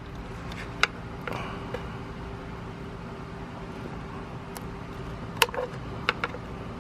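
A few sharp clicks and taps of pliers and hands working plastic clips on the engine, over a steady background hum.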